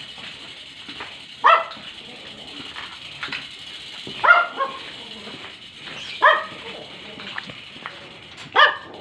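A dog barking: four single barks about two seconds apart, over a steady high hiss.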